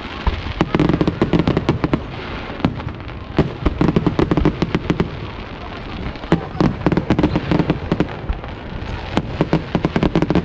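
Fireworks display: a dense run of sharp cracks and bangs, gathering into heavier clusters every couple of seconds.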